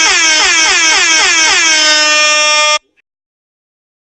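A loud, buzzy electronic tone with many overtones, dipping in pitch in quick repeated swoops about three times a second. It cuts off abruptly a little under three seconds in.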